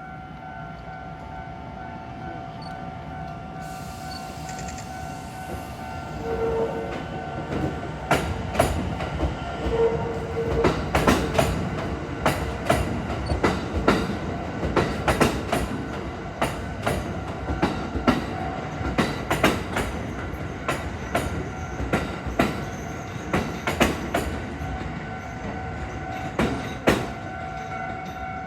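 Kintetsu 8A series electric train set 8A04 moving through depot tracks, its wheels clacking sharply and irregularly over rail joints and points from about eight seconds in, with a steady whine underneath. Two short tones sound near the start.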